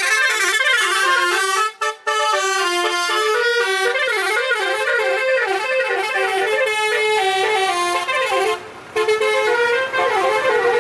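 Basuri truck horn, a multi-tone musical horn, playing a running melody of stepping horn notes. It breaks off briefly about two seconds in and again near nine seconds.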